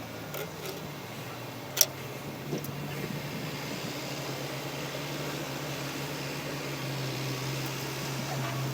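An engine running steadily with a low hum that grows slightly louder after a few seconds, and a single sharp click just before two seconds in.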